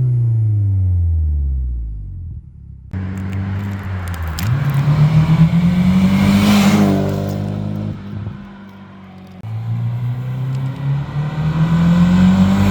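Nissan S15 Silvia's four-cylinder engine through a custom titanium Yashio Factory exhaust: revs falling at the start, then after a sudden cut the engine note climbs twice under acceleration, easing off in between.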